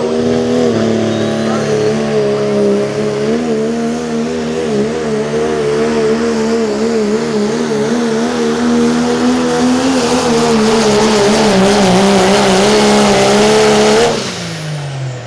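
Pulling-class diesel pickup truck's engine running at high revs under full load down the track, its pitch wavering up and down. Near the end the throttle comes off: the engine note falls away and the sound drops off.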